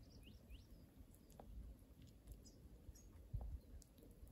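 Near silence: a faint low rumble, with a few faint, short bird chirps in the first second and a soft low thump about three seconds in.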